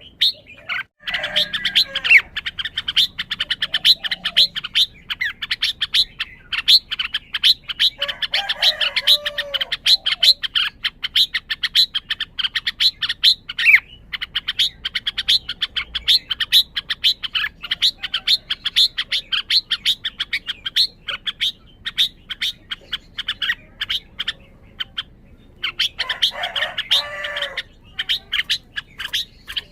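Red-whiskered bulbul calling with a rapid, unbroken run of short sharp chirps, breaking into fuller warbled song phrases about eight seconds in and again near the end.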